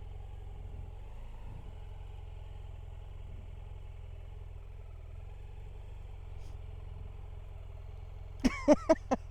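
Triumph Bonneville parallel-twin engine running steadily at a cruise. Near the end comes a quick run of short, sharp, high calls, much louder than the engine.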